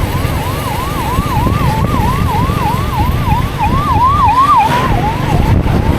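A vehicle siren sounding in quick rising sweeps, about three a second. It grows louder, then fades away after about five seconds, over the steady low rumble of the motorcycle's engine and wind.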